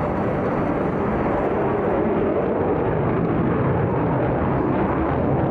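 Eurofighter Typhoon's twin jet engines, a steady loud rumble of jet noise from the fighter in flight.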